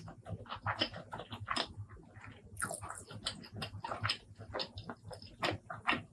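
Close-miked eating sounds: a fast, irregular run of wet mouth clicks and smacks from chewing, several a second.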